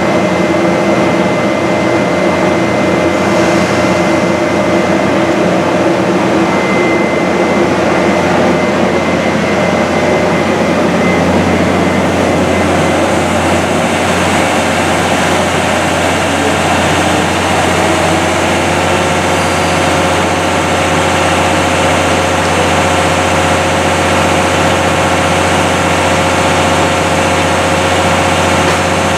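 Taiwan Railways locomotive standing in the station, running with a steady, unchanging engine hum.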